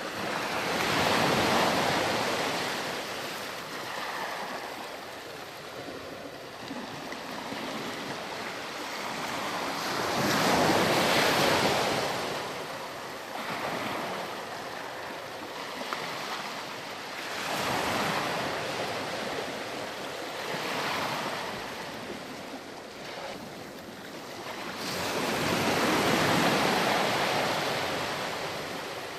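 Ocean waves breaking and washing on a sandy beach, the surf rising and falling in repeated swells, the biggest about a second in, around the middle and near the end.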